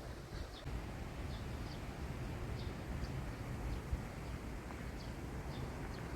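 Small birds chirping with short, repeated high calls over a steady low rumble of wind on the microphone.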